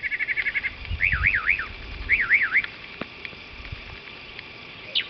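A mockingbird mimicking a car alarm: a quick run of rapid repeated chirps, then two bouts of wavering, siren-like up-and-down whoops. A sharp down-slurred chirp follows near the end.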